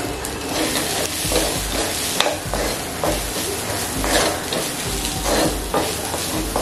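Onion, garlic, ginger and coconut frying in a pan, sizzling steadily while a spoon stirs them with repeated short scrapes against the pan.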